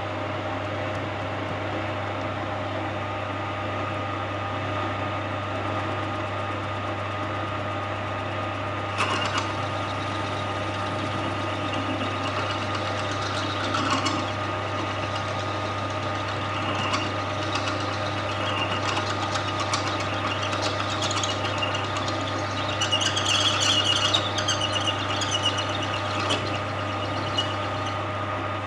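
A lathe motor running steadily while a drill bit bores out the brass joint of a snooker cue, with brass-cutting scrapes and chatter coming and going from about a third of the way in, busiest near the end.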